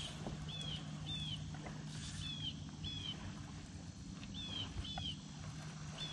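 A bird repeating a short, slightly falling chirp, mostly in pairs about half a second apart, over a steady low hum.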